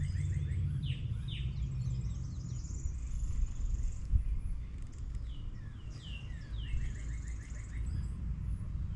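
Songbirds calling and singing: short downslurred whistles and a quick trill of repeated notes, heard twice, with thin high notes between. A steady low rumble runs underneath.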